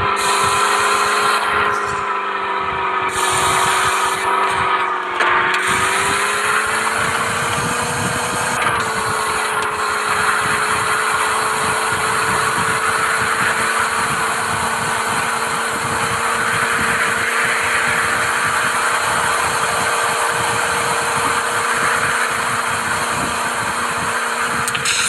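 Mahindra Thar running off road: a steady mechanical whine over the engine sound, dipping in pitch about five seconds in and rising again a few seconds later, with an uneven low rumble underneath.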